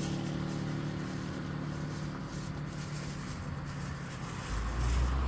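A motor vehicle's engine running with a steady low hum that fades over the first couple of seconds. A deep low rumble comes in near the end.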